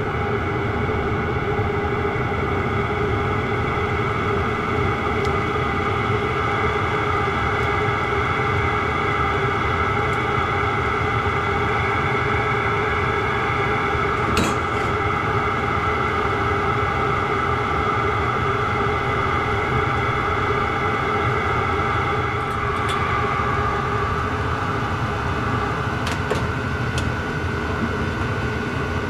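Chinese diesel parking heater running steadily shortly after start-up: a constant whir with several steady tones over a rumble, broken by a few faint clicks.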